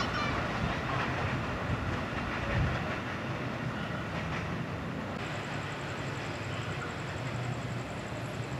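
Electric commuter train running along the track: a steady noise of wheels on rail. A thin high whine joins about halfway through.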